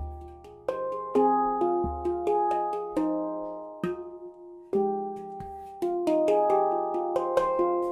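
Handpan tuned in F (F, G#, C, D#, F, G, G#, C, D#) played by hand: struck notes ringing out and overlapping, with deep thumps from the bass. The playing thins out briefly around four seconds in, then picks up again with quicker notes.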